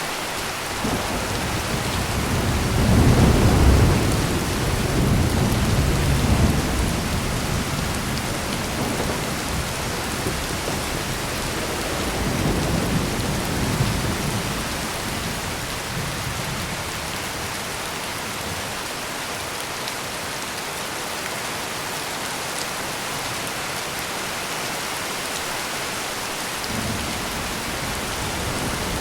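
Steady heavy rain falling, with low rolling thunder swelling up a few seconds in and again near the middle, and a third rumble building near the end.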